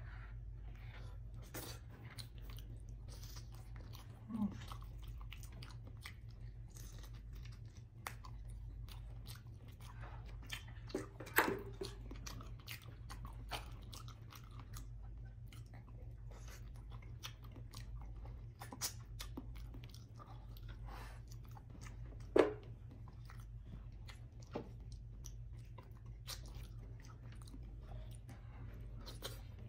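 Close-miked chewing and wet mouth sounds of eating beef shank and rice by hand, with many small clicks and a few sharper, louder smacks, over a steady low hum.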